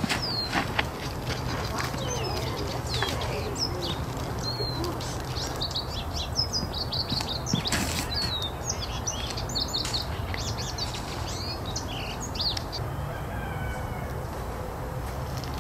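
Birds chirping and chattering outdoors, a rapid run of short, quick-pitched calls that thins out in the last few seconds, over a steady low rumble. A single sharp knock sounds about eight seconds in.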